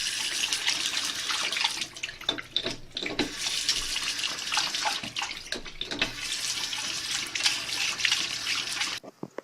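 Water running from a tap and splashing, with an irregular spattering; it cuts off near the end.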